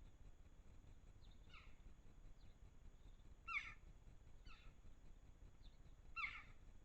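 Small bird calling: short, downward-sliding call notes repeated roughly once a second, two of them louder, about three and a half and six seconds in, over a faint hiss.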